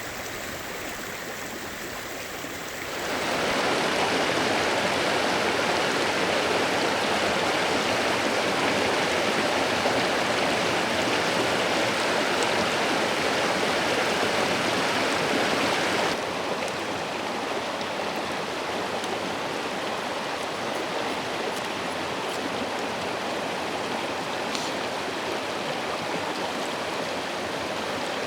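Clear shallow river babbling and rushing over stones, a steady even rush of water. It gets louder a few seconds in and drops back somewhat a little past halfway.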